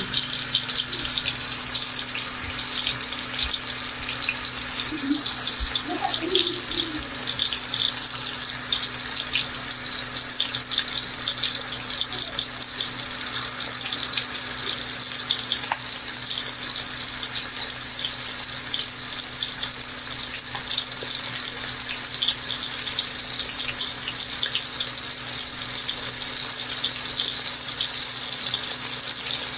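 Chicken breast pieces frying in hot oil: a steady, loud sizzle with scattered small crackles.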